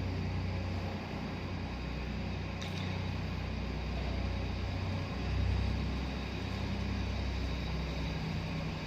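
Tractor engine running steadily under load while pulling a land leveler over a field, its low note swelling briefly about five and a half seconds in.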